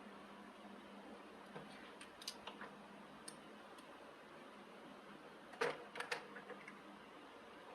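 Faint scattered clicks and light taps over a low steady hiss, with the loudest cluster of clicks a little over five seconds in.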